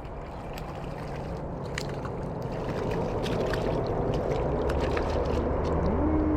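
Outdoor background noise that grows steadily louder, with scattered faint clicks and, near the end, a low motor hum and a short rising whine, like a vehicle approaching.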